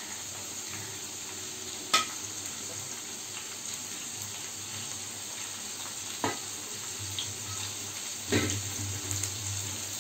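Sliced onions and papaya pieces sizzling in hot mustard oil in a wok, the onions just dropped in to fry on high heat. A steady frying hiss with three sharp clicks, the first and loudest about two seconds in.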